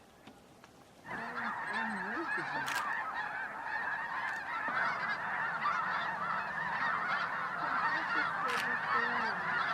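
A large flock of snow geese calling, a dense chorus of overlapping honks that starts abruptly about a second in and keeps going.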